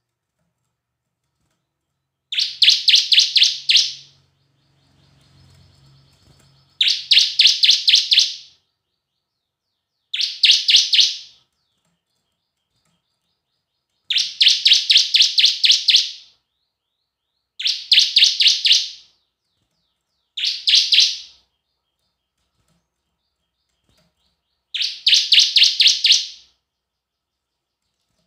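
Bar-winged prinia (ciblek) song: seven short bursts of rapid, repeated high chirping notes, each lasting one to two seconds, separated by pauses of a second or more. It is played as a pancingan, a lure song meant to set other ciblek singing.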